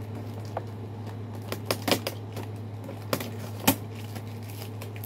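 Irregular sharp clicks and taps of stiff plastic packaging and twist ties being handled while a toy robot is unpacked, over a steady low hum.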